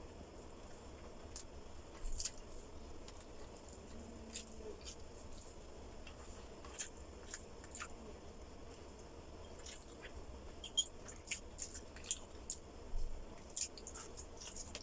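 Close-up mouth sounds of someone eating: soft chewing with scattered short wet clicks and smacks, coming more often near the end.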